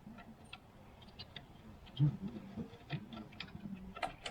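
Faint scattered clicks and light knocks of hand work on a motorcycle's carburetor and air intake, with a dull bump about two seconds in.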